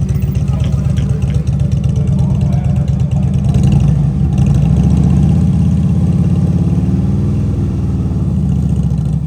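A car engine running loud with a deep, low rumble, getting louder about a third of the way in and then holding steady.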